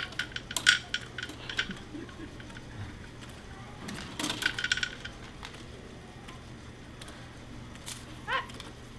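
Small hard plastic Lego pieces clattering and clinking, in two bursts of rummaging or handling, at the start and about four seconds in. A short rising squeak near the end.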